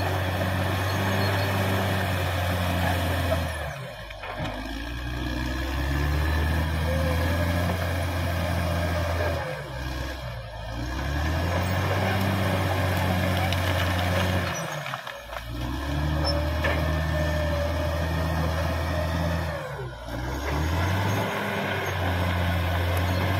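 Caterpillar D6R XL bulldozer's diesel engine running steadily. Its note sags and comes back up four times, about every five seconds.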